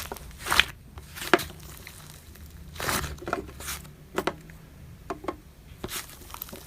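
Slime being squeezed and stretched by hand, giving a string of separate crackles and pops.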